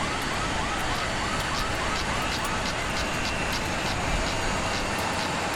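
A siren-like electronic yelp: a rapid string of rising chirps, about four a second, over a steady noise. It fades after about three seconds.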